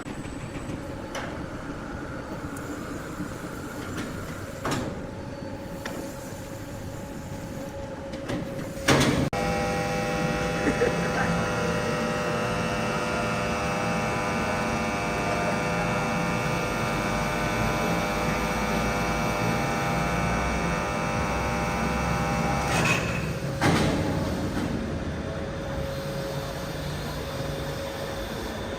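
Sawmill machinery: a low mechanical rumble, then a knock about nine seconds in as a motorised saw starts up with a steady whine of many even tones. It runs for about fourteen seconds and stops with a couple of knocks.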